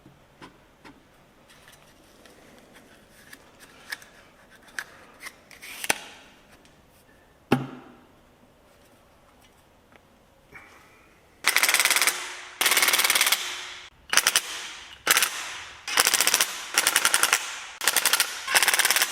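Light clicks and knocks as the crankcase cover and its bolts are fitted to the Kohler Command V-twin. About eleven seconds in, a power driver starts running the cover bolts down in a string of short rattling bursts, about one a second, snugging the cover onto fresh sealant before final torquing.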